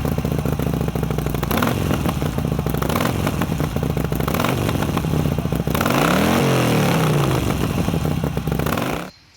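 Harley-Davidson Sportster Iron 883's V-twin engine running loud through its exhaust, revving up and back down about six to seven seconds in. The sound stops abruptly near the end.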